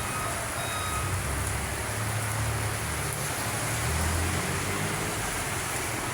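Steady rain falling, an even hiss, over the low rumble of a vehicle engine that swells a little about two seconds in and again about four seconds in.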